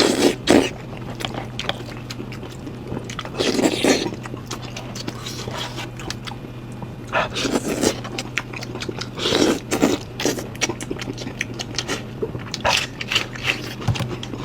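A person biting and chewing goat head meat close to the microphone: a run of irregular clicking mouth sounds, with a louder bite every couple of seconds. A steady low hum runs underneath.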